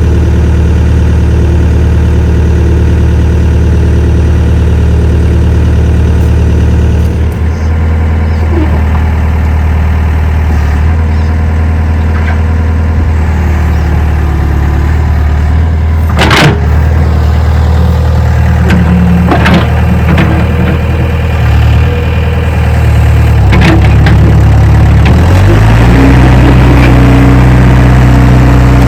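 Komatsu excavator's diesel engine running steadily, with a few sharp metallic knocks in the middle; about 25 seconds in the engine speed steps up and it runs louder.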